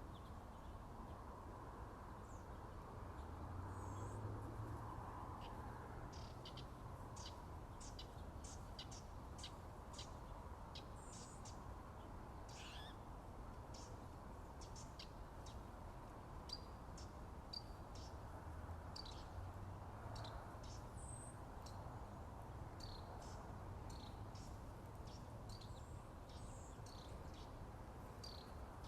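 Wild songbirds chirping and calling: many short, high notes, some quick and some sliding, scattered throughout, over a faint steady low rumble.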